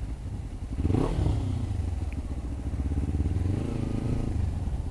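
Motorcycle engine running steadily, with a brief rev about a second in as the throttle is opened.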